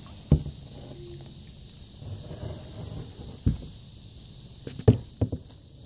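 Kayak paddling: a low water sound broken by four sharp knocks as the paddle strikes the kayak, the loudest near the start and about five seconds in.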